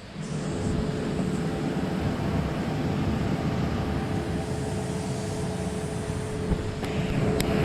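Air compressor starting and then running steadily with a low hum and a faint steady tone. It supplies air for the spray gun and respirator during clear-coat spraying. A few light clicks come near the end.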